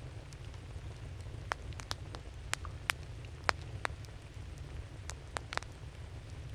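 Burning wood crackling in a campfire: about a dozen sharp, irregular pops and snaps over a steady low rumble, most of them in the middle seconds.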